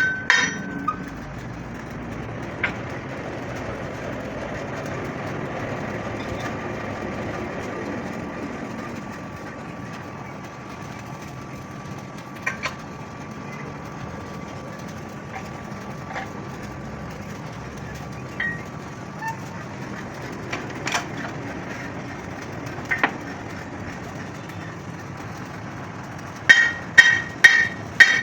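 Steady workshop noise with scattered sharp metal knocks, then a quick run of about five loud, ringing blows on steel near the end.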